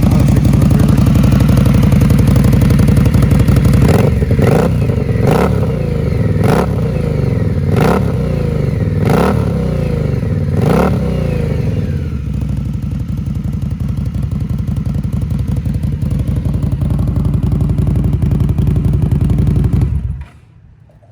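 2019 Indian Scout's V-twin running through Vance and Hines slip-on silencers, blipped about seven times in quick succession, then settling to a steady idle. The sound cuts off suddenly near the end.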